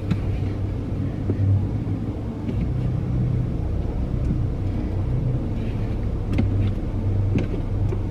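Low steady vehicle rumble heard from inside a parked car, swelling and fading slightly, with a few faint clicks.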